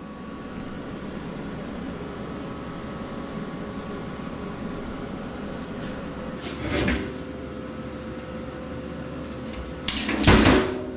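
A steady mechanical hum, like a fan or heater running, with a short knock about seven seconds in. Near the end comes a louder clatter of metal knocks.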